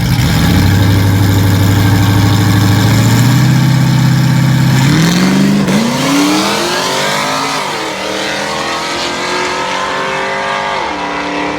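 Cammed 5.3 L LS V8 in an S10 pickup, running on nitrous, at full throttle down a drag strip. The revs climb, then drop sharply at each automatic upshift: three shifts, about halfway through, two-thirds in, and near the end.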